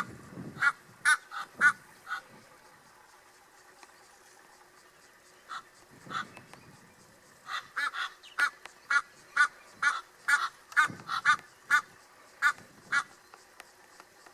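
Repeated short, pitched bird calls in irregular runs: a few at the start, a sparse stretch, then a quick series of calls from about seven to thirteen seconds in.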